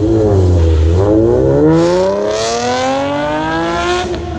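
Nissan 370Z's 3.7-litre V6 revved through its exhaust. After a brief dip, the revs climb steadily for about three seconds, then drop off near the end.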